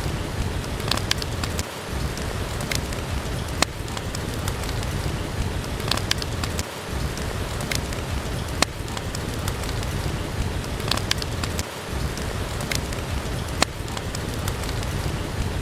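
Steady rain with a wood fire crackling, sharp pops coming every second or two.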